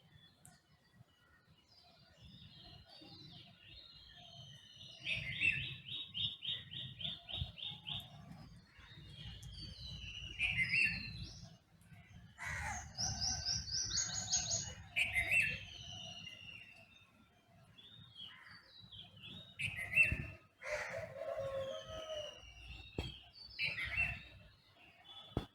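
Several wild birds calling and singing together in a dawn chorus: repeated short down-slurred calls, a fast trill about five seconds in, a higher trill about halfway through, and a lower call near the end. A faint low rumble runs underneath.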